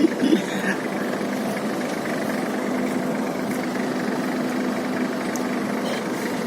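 Toyota Land Cruiser engine running steadily at an even, unchanging speed.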